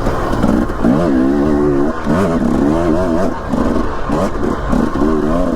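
Dirt bike engine running under load on a trail, its pitch climbing and dropping several times as the throttle is worked.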